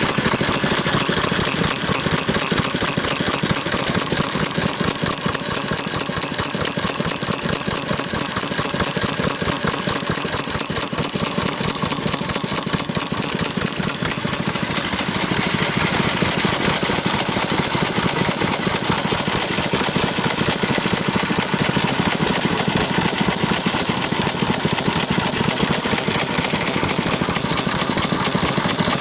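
Vintage stationary farm engines running steadily, with a fast, even firing beat.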